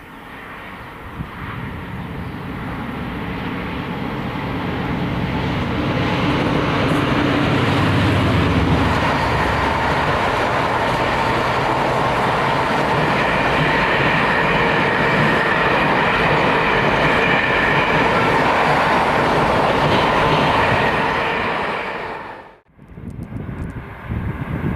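Freight train passing at speed: the sound of the locomotive builds up, then a long rake of wagons rolls by with a steady rumble and rhythmic wheel clatter over the rail joints. It cuts off suddenly near the end.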